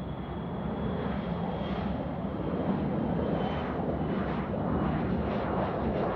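Airliner engines at takeoff power, a steady rumbling roar that grows louder, with a thin high whine in the first half.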